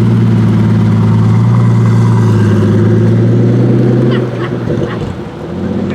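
Hypercar engine running loud at a steady, unchanging pitch, then dropping off sharply about four seconds in, followed by a few short high chirps.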